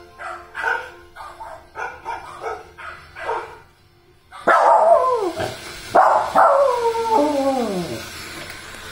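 Dogs barking in a quick run of short barks. After a brief pause come several long howls that slide down in pitch.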